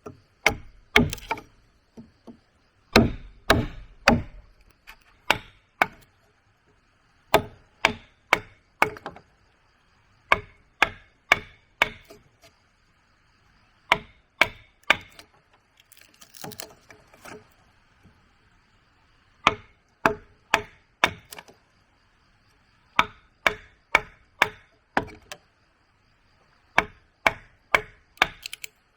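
Wood being chopped: sharp blows in bursts of three to five, with short pauses between bursts and a brief softer scraping about halfway through.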